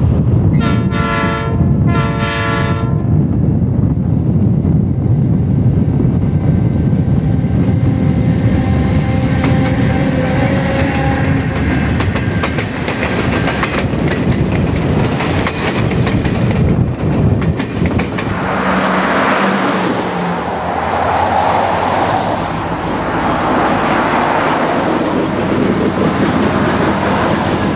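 A diesel locomotive's horn sounds two short blasts, then an Alaska Railroad passenger train runs past with a steady low rumble and the clatter of its wheels on the rails.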